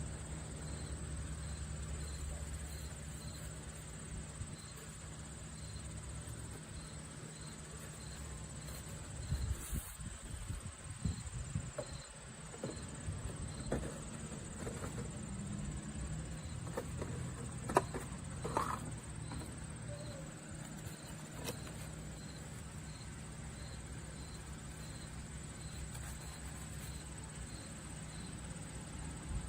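Outdoor ambience of insects chirping steadily, with a repeated high chirp about once a second. A scattered series of small knocks and clicks comes in the middle.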